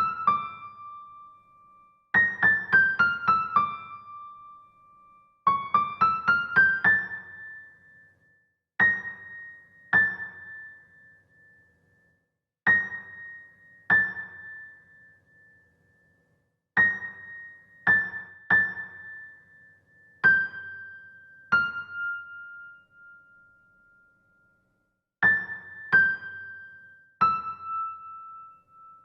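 Solo piano-like keyboard music played high on the keyboard, one note at a time. Quick falling runs of five or six notes give way to slower single notes, each struck sharply and left to ring and fade, with short silences between phrases.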